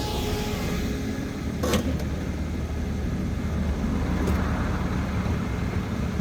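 A car running with a steady low engine rumble, a high hiss fading away in the first second as it passes. Two short sharp clicks, near two seconds in and a little after four seconds.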